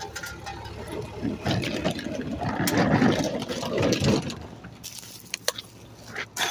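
Rear-loading garbage truck with its engine running steadily. A louder, rough stretch of noise builds from about a second in and stops sharply about four seconds in, followed by a few sharp clicks.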